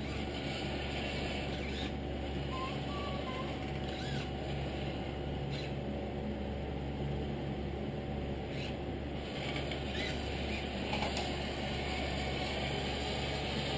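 Small electric drive motor and gearbox of a 1/14-scale RC Scania timber truck running with a steady whir, with a few faint clicks.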